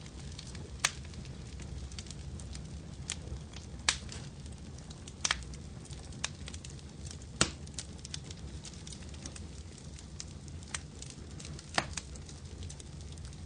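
Wood fire crackling in a fireplace: a low steady rumble and hiss with sharp, irregular pops and snaps, the loudest about a second in, near four seconds, near seven and a half seconds and near twelve seconds.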